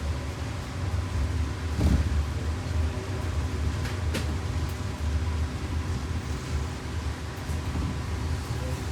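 Cabin ride noise of a 2024 Blue Bird G5 electric school bus on the move: steady low road rumble with a faint steady high whine. There is a thump about two seconds in and a sharp click about four seconds in.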